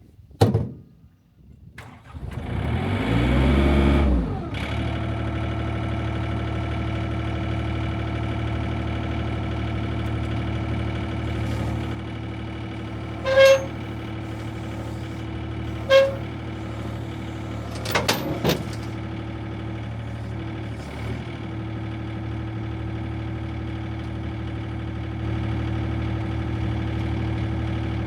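A vehicle engine starts about two seconds in, revs up briefly, then settles into a steady idle. Two short beeps sound partway through, followed by a couple of clunks.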